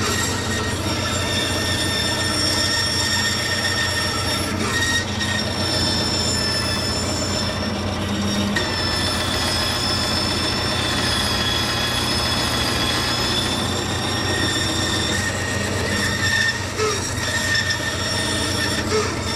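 A power tool running steadily with a high, slightly wavering whine over a low hum.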